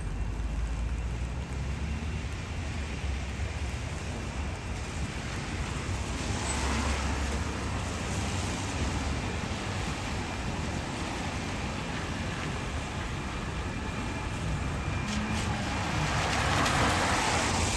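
Street traffic: a steady background of cars and engine rumble, with two vehicles passing close by, one about a third of the way in and a louder one near the end.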